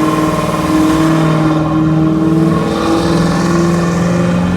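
Car engine revved up and held at high revs, a steady loud tone that steps slightly higher about three seconds in.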